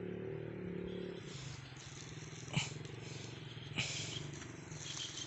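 Engine running steadily, its low hum shifting in pitch about a second in, with two sharp clicks.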